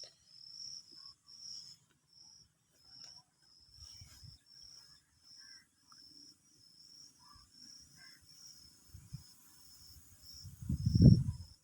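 An insect chirping steadily, short high chirps about twice a second, typical of a cricket. Near the end a louder low rumble, like a handling bump on the microphone, briefly stands out.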